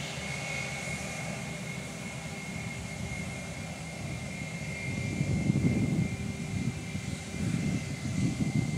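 Jet engine noise of an Airbus A320: a steady rushing sound with a thin high whine. From about halfway a louder, fluttering low rumble builds up.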